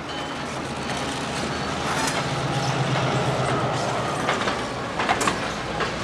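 Freight train's covered hopper cars rolling past close by: a steady rumble of steel wheels on rail, with sharp clicks and clanks over the rail joints, more of them in the second half.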